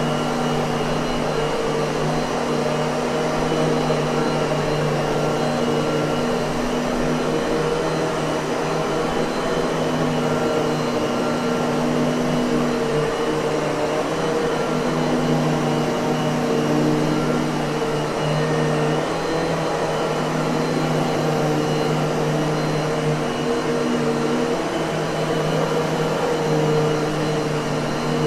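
Miele vacuum cleaner running steadily: a constant motor hum over an even rush of air, with no change in speed.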